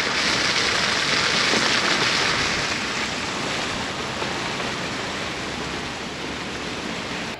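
Water spraying steadily from the cleaning jets of a self-cleaning intake screen in a river, a hissing rush that is loudest for the first few seconds and then eases a little.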